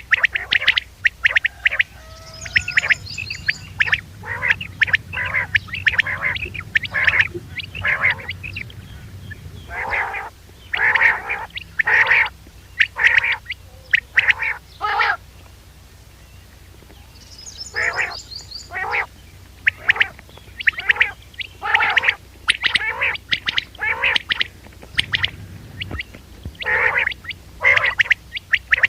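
Recorded quail calls played as a hunting lure: runs of short, sharp repeated notes with a pause about halfway through, a faint higher trill twice, and a low hum from the recording underneath.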